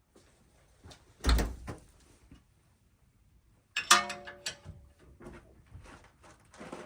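Metal tools and parts knocking during work on a steering linkage: a heavy thump about a second in, then a sharp metallic clank that rings on briefly about four seconds in, followed by a few lighter knocks.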